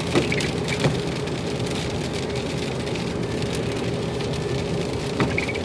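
Steady road and rain noise inside a moving car, with a faint steady hum and a few short sharp taps, twice near the start and twice near the end.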